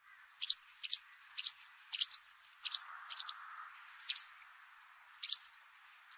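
Small bird giving short, sharp, high call notes, about ten in all, irregularly spaced roughly half a second apart, over a faint steady hiss.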